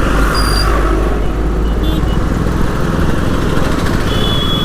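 KTM Duke 125's single-cylinder engine running at riding speed, heard with a steady rush of wind and road noise in traffic. A brief high steady tone sounds near the end.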